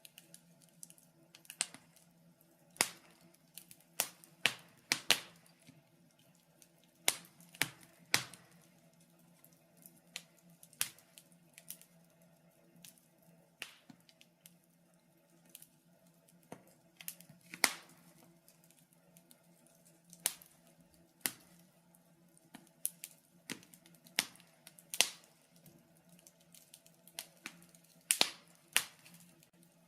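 Wood fire in a fireplace crackling, with sharp pops at irregular intervals, sometimes several in quick succession, over a faint steady low hum.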